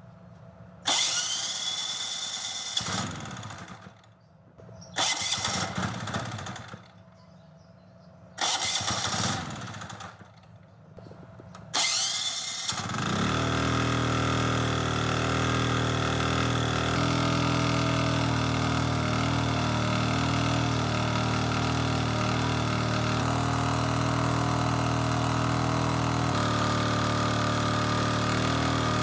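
Restored Yanmar generator engine being started. Three times it spins up and runs down without catching. On the fourth try, about twelve seconds in, it catches and settles into a steady run.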